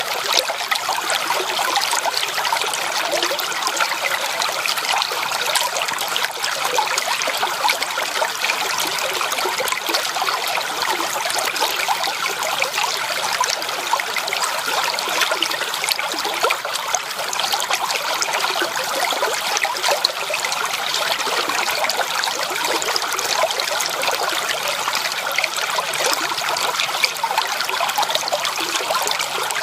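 A shallow creek trickling and babbling steadily over stones, with many small splashes and gurgles.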